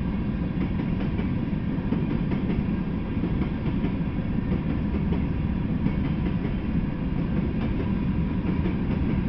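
Freight train of covered hopper cars rolling by slowly: a steady low rumble of steel wheels on rail.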